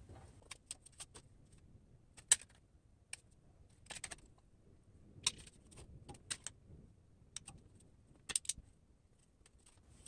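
Scattered light clicks and metallic clinks from handling and bending the corners of a thin metal license plate, about a dozen in all, the sharpest about two seconds in and a quick pair near the end.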